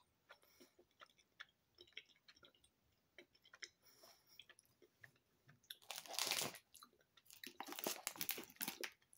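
Faint close-up chewing of a Fruit Gushers gummy fruit snack, with small mouth clicks throughout and louder stretches of mouth noise about six and eight seconds in.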